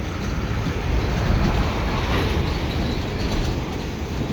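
Loaded double-stack container cars rolling past while being shoved back in a switching move: a steady low rumble of steel wheels on the rails.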